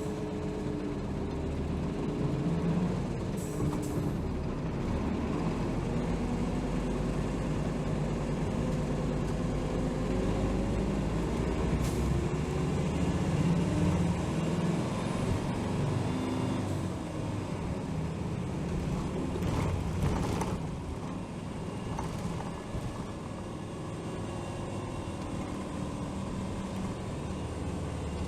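Diesel engine of a 2007 Hino Rainbow HR city bus running under way, its pitch rising and falling as the bus speeds up and changes gear, with road noise. It gets quieter about three-quarters of the way through as the bus eases off.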